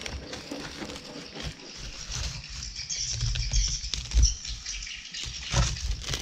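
Lotus leaf wrapping being peeled off a whole grilled chicken: irregular rustling and crinkling of the dry, charred leaves, with a few dull bumps on the plate, the loudest about four seconds in.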